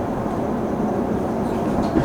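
Commuter train running, heard from inside the passenger car: a steady rumble of wheels and running gear with a low hum. Faint clicks come near the end.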